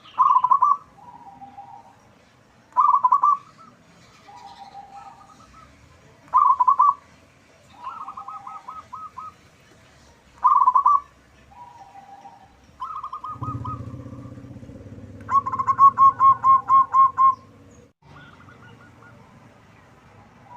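Zebra dove (perkutut) cooing: loud, short, repeated coo phrases every three to four seconds, with softer, lower coos in between and a longer run of quick coos about two-thirds of the way in. A low steady hum sounds underneath for a few seconds in the middle.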